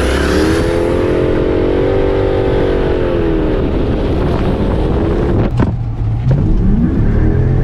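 2013 Dodge Charger R/T's 5.7-litre Hemi V8 revving hard under acceleration, holding high revs for about three seconds before dropping off. A couple of sharp clicks come about five and a half seconds in, and the engine revs up again near the end.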